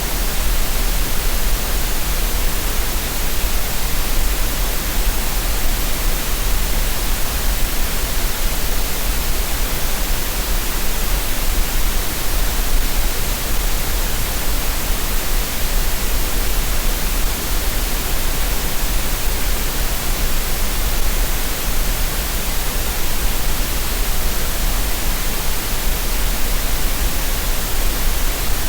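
Steady, unchanging green noise: an even synthetic hiss spread across the whole range, with a strong deep rumble at the bottom.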